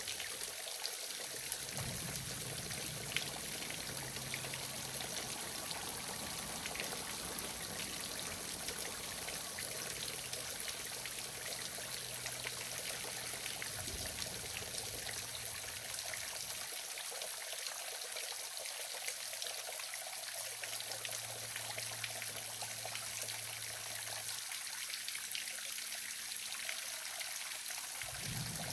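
Small waterfall, its water pouring and splashing in a steady hiss.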